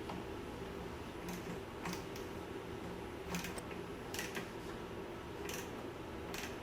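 Light, scattered metallic clicks, about nine over several seconds, from small carburetor parts being handled as a spring or linkage is hooked back onto a small Briggs & Stratton mower engine, over a steady low hum.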